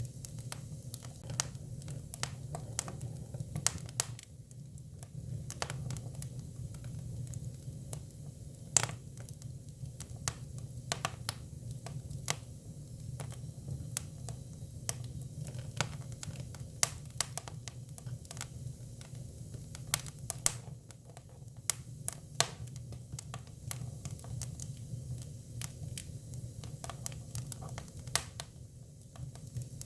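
Hinoki (Japanese cypress) firewood burning: irregular sharp crackles and pops, several a second at times, over a steady low hum of the fire.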